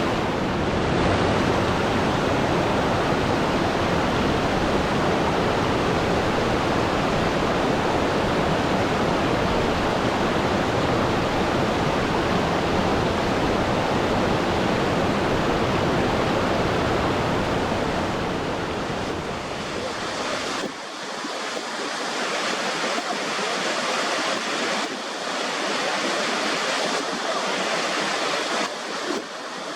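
Steady, full rush of running water, like a waterfall or torrent. About two-thirds of the way through it cuts to a thinner water sound without the deep rumble, swelling and easing every second or two like surf.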